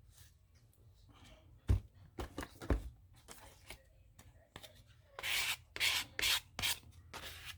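Paper being handled on a tabletop: two light knocks, then several quick rustling rubs of paper pieces being shuffled and smoothed down near the end.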